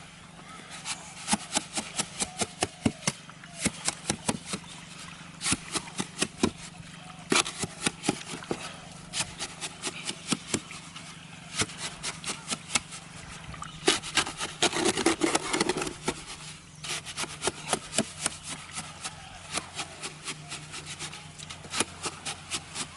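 Cement mortar being mixed by hand: a hand tool scraping and chopping through it in quick runs of short strokes, several a second, with a longer rough scrape about two thirds of the way in. A steady low hum runs underneath.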